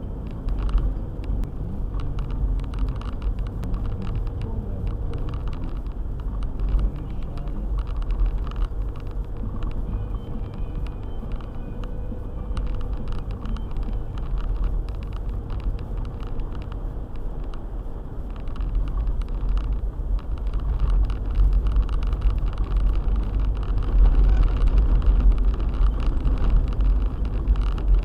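Four-wheel-drive car driving on a snowy road: a steady low rumble of engine and tyres, scattered with many small ticks and knocks. It grows louder about two-thirds of the way through.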